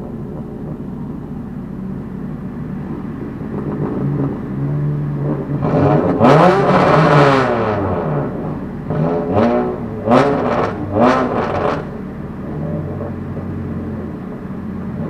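Heard from inside a stationary race car's cabin: a steady low hum, then from about six seconds in, car engines rise and fall in pitch several times over roughly six seconds, from cars revving or passing close by.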